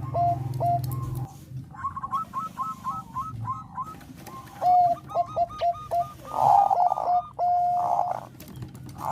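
Zebra dove of the Thai 'perkutut bangkok' strain singing in quick runs of short, clipped cooing notes. A higher-pitched run comes about two seconds in and another lower run follows, then a couple of rougher, noisier notes and one held note near the end.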